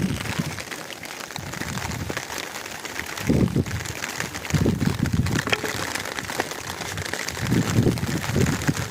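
Steady rain falling, with a few louder low rumbles about three and a half, five and eight seconds in.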